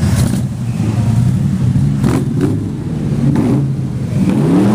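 Classic car engines running in a low, steady note as cars drive past, with pitch rising and falling as engines rev, most plainly near the end.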